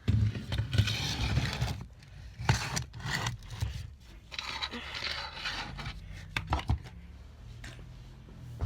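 Scraping and rubbing handling noise from a CO2-powered BB pistol being turned over and handled, with a few sharp clicks about six and a half seconds in.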